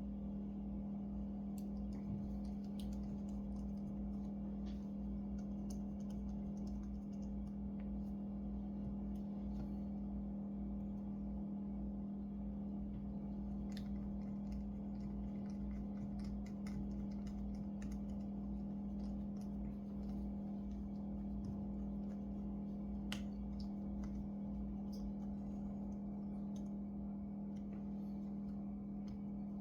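Light, irregular clicks and taps of small tools and parts being handled during laptop disassembly, over a steady low electrical hum.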